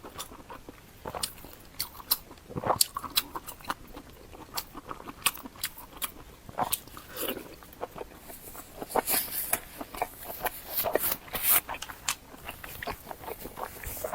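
Close-miked eating: a person biting and chewing crunchy food, with many irregular crisp crunches and mouth clicks.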